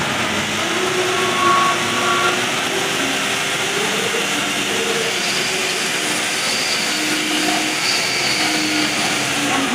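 Steady vehicle noise: an even rush of engine and road sound without breaks.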